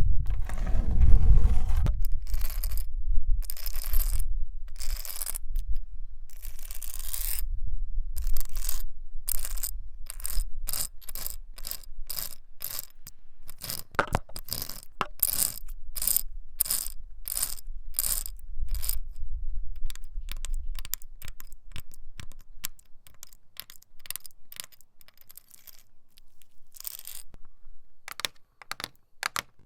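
A metal nail worn on a fingertip scratching and tapping a white wall in a run of short strokes. The first strokes are longer scrapes; then they come about two a second, growing fainter and quicker near the end.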